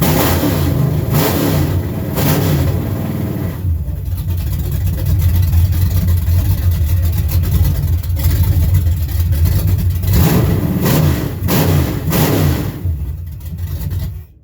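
1963 GMC farm truck's engine running loud, blipped up and down a few times in the first three seconds and again near the end, then stopping abruptly. It has a lumpy note that sounds almost as if it has a mild performance cam.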